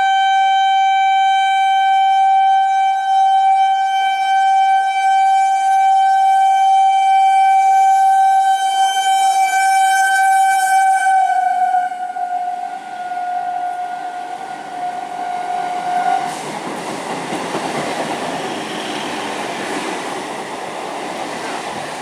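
A train horn sounds one long, steady note that drops slightly in pitch as the train comes level, about 11 to 12 seconds in, and dies away a few seconds later. From about 12 seconds in, the train rushes past with the rumble and clatter of its wheels on the rails.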